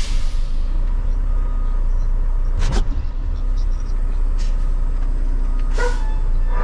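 Semi-truck diesel engine running steadily, heard from inside the cab, with a few short clicks and knocks.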